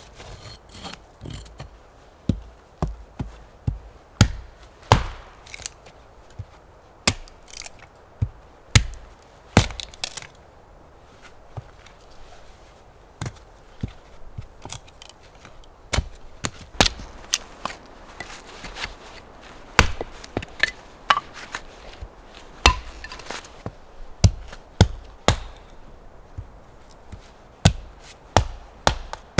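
Wood being chopped: repeated sharp chopping strikes, uneven, about one to two a second, with short pauses between runs.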